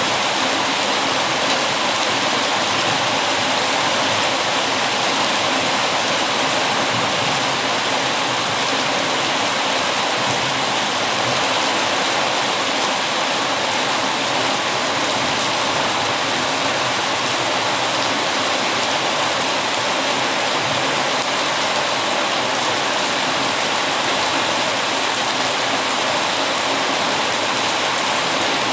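Steady heavy rainfall, an even, unbroken hiss of falling rain.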